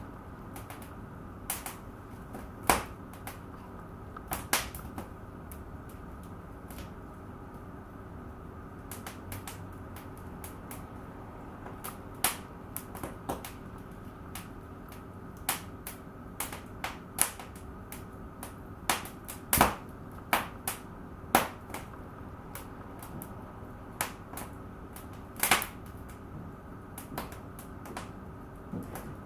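Fire in a fireplace crackling, with irregular sharp pops of varying loudness scattered through, over a steady low background hum.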